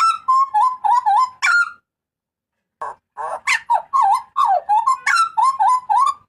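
Hooded butcherbird calling loudly: a rapid series of short, clear notes that bend up and down in pitch, several a second. It breaks off for about a second near the middle, then starts again.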